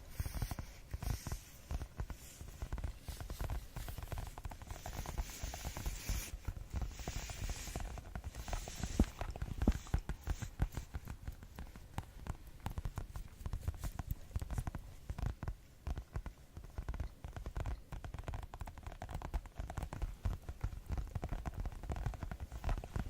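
Fast ASMR tapping: rapid, dense, irregular taps, mostly dull and low, with brighter, scratchier stretches between about five and ten seconds in.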